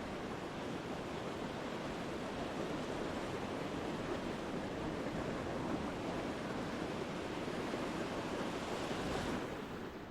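Ocean surf breaking and washing up a beach in a steady rush, dropping away sharply near the end.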